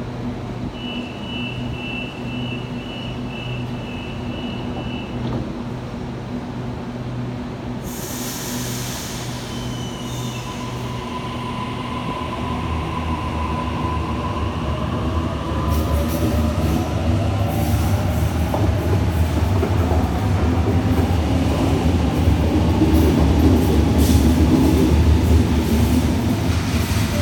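A Sydney Trains Waratah (A set) electric train pulling away. A steady high two-note tone sounds for a few seconds and a burst of hiss comes about eight seconds in. Then the traction motors' whine rises in pitch in several tones as the train accelerates, over a growing rumble of wheels on rail.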